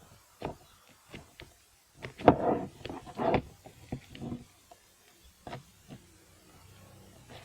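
Hands kneading and pressing slime, giving a string of sticky clicks and short squelches, the loudest about two to three and a half seconds in, then a few single clicks.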